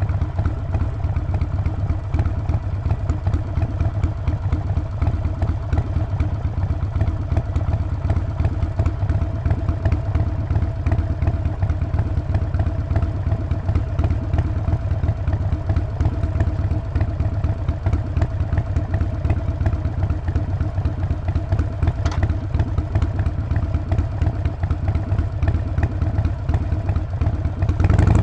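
Harley-Davidson Sportster Forty-Eight's air-cooled 1200 V-twin engine and exhaust running at a steady, unchanging speed, with one brief tick about three quarters of the way through.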